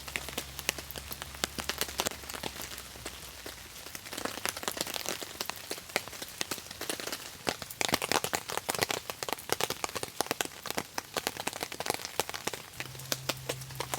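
Rain falling, with many separate drops striking a surface in quick, irregular succession. The hits come thickest around the middle.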